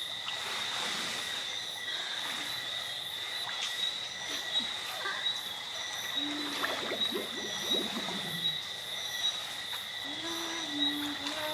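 Rainforest ambience: a steady high-pitched chorus of insects and frogs, with short chirps repeating about once a second and a brief low call twice in the second half.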